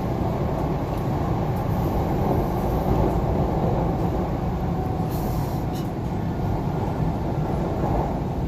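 MTR C-Train electric multiple unit running, a steady low rumble of the train in motion.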